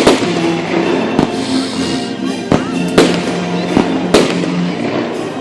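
Aerial fireworks bursting: about six sharp bangs, roughly a second apart, with a brief crackle between them, over music with long held notes.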